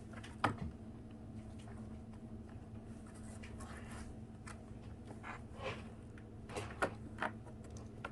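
A few light taps and short rustles at irregular intervals, the sharpest about half a second in and a cluster near the end, over a steady low hum.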